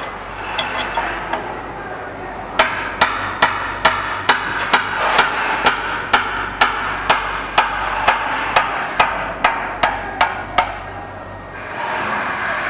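Hand hammer striking repeatedly at a steady pace, about two to three blows a second. The blows start a couple of seconds in and stop shortly before the end, over a steady background noise.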